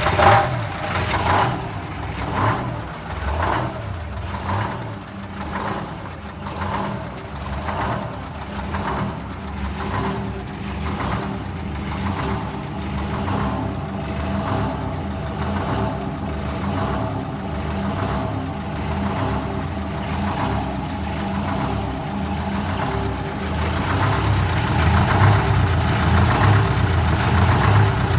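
Detroit Diesel 8V71 two-stroke V8 diesel running cold after a hard start. It pulses unevenly about once a second for the first ten seconds, then settles into a steadier idle and gets louder about 24 seconds in.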